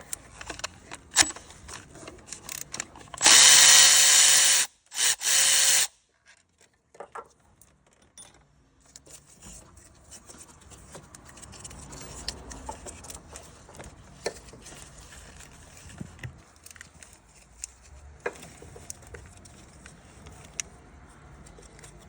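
A handheld power tool runs in two bursts, about a second and a half and then about a second, undoing bolts on a car engine. Light clicks and tool handling noises follow.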